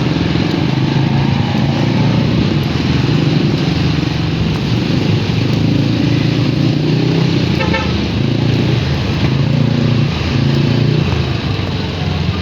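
Motorcycle engine running steadily on the move, under a constant rush of wind and road noise.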